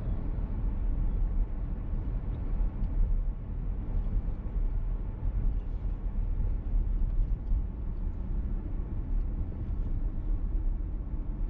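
Steady low rumble of road and engine noise inside a VW T-Roc's cabin while it is driven.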